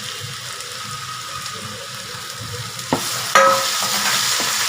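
Chopped shallots frying and sizzling in hot oil in a pan while being stirred. About three seconds in come two sharp knocks against the pan, after which the sizzle gets louder.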